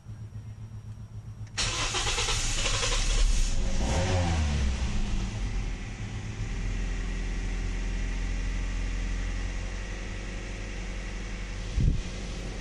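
Toyota Yaris petrol engine starting about a second and a half in, revving up briefly, then settling to a steady idle. A short thump near the end.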